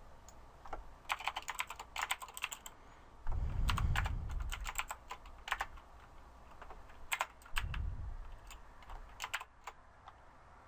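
Computer keyboard typing in irregular bursts of keystrokes, as code is written. Two short low rumbles break in, the louder about a third of the way in and a smaller one later.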